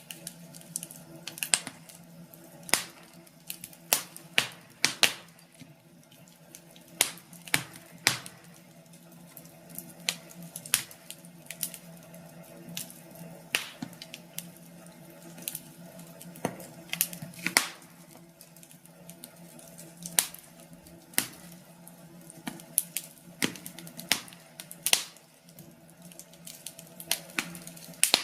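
Wood fire crackling in a fireplace: irregular sharp pops and snaps, a couple a second, over a faint steady hum.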